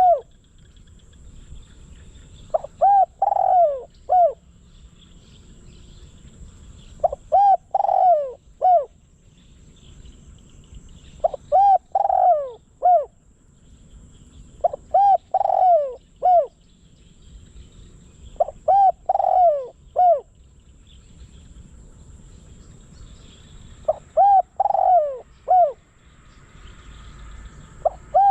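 Spotted dove, a caged decoy bird, cooing. It repeats a phrase of four or five low, falling coos about every four seconds, six times.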